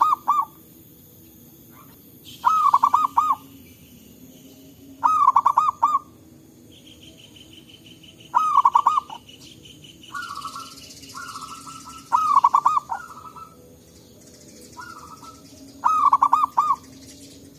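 Zebra doves cooing. One bird gives a loud, rolling, bubbling coo phrase about every three to four seconds, five times, and a fainter dove answers with shorter coos in between. A steady, higher buzzing trill runs from about seven to ten seconds in.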